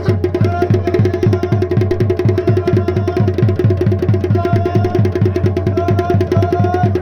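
Fast, steady drumming for a Garhwali Pandav Nritya dance, about six strokes a second, with short high held notes sounding over it now and then.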